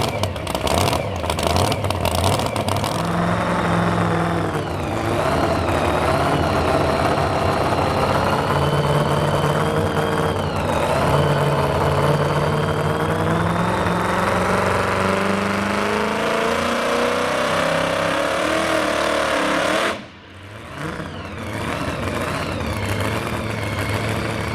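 Modified two-wheel-drive pulling truck's engine running hard under load, its pitch wavering, until the throttle is cut sharply about 20 seconds in and it drops back to idle. The run ends short of the 100-foot mark, which the announcer fears is a problem from the takeoff.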